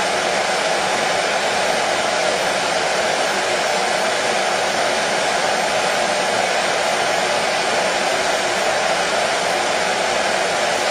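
Hair dryer running steadily: an unbroken, even whoosh of blown air and motor with no change in pitch or level.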